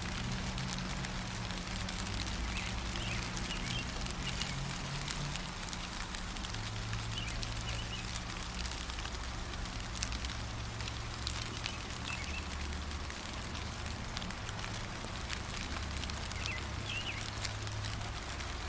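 Gentle rain falling steadily, with the patter of many small drops, and a bird giving short chirps a few times through it. A steady low rumble runs underneath.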